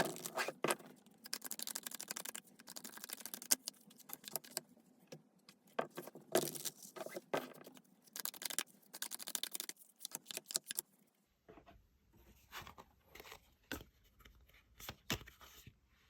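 Tarot cards being shuffled and handled by hand: a dense run of rustling and clicking card sounds that turns sparser for the last few seconds.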